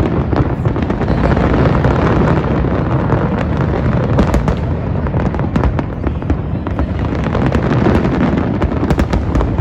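Fireworks going off in a dense, continuous barrage of overlapping loud bangs.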